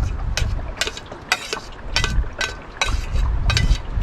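Metal cooking utensils clinking and scraping against a pot, in irregular sharp knocks a few times a second, some with a brief ring, over a low rumble.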